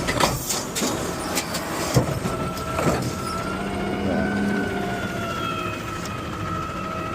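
Garbage truck's automated side-loader arm handling a trash can: a few sharp knocks and clunks in the first three seconds, then a steady whine of the hydraulics as the arm lifts and tips the can.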